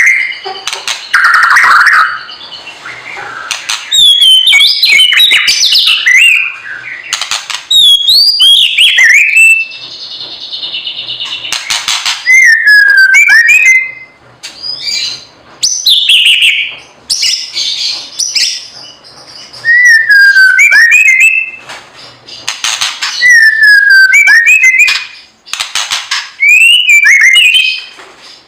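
A bird singing loud whistled phrases that slide down in pitch and hook back up, repeated every few seconds, with harsh chattering notes between them.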